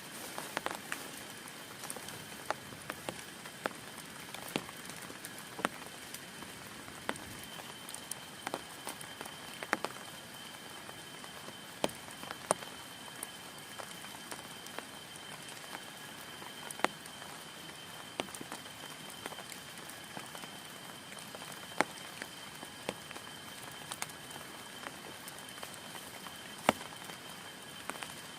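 Steady rain on a tent, with heavy single drops landing as sharp, irregular taps, several much louder than the rest.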